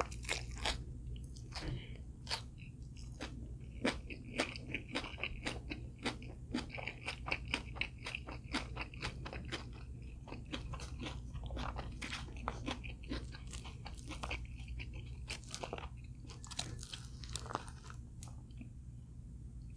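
Close-up crunching and chewing of crispy fried food, a quick run of sharp crunches several times a second that thins out toward the end.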